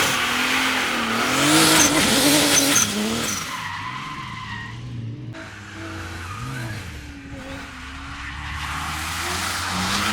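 Drift car sliding on the track, its engine revs rising and falling with the throttle while the tyres skid with a loud hiss, loudest a couple of seconds in, easing off, then building again near the end.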